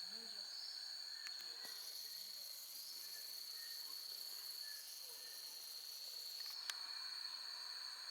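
Rainforest insects trilling in a steady high-pitched drone, with a shriller hissing layer joining for most of the middle. There is a single sharp click near the end.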